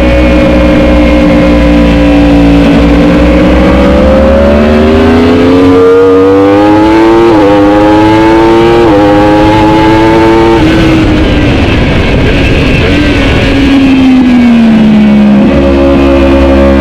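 Racing superbike engine accelerating hard, its pitch climbing, with two quick upshifts about a second and a half apart. Around eleven seconds in the throttle shuts off suddenly and the engine note drops as the bike slows, before picking up a steady drive again near the end.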